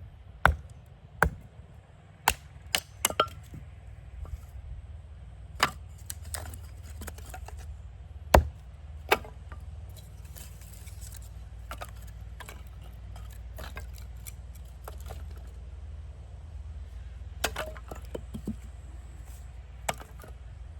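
Irregular sharp knocks and cracks of wood being struck, about a dozen spread through, the loudest in the first nine seconds, over a steady low rumble.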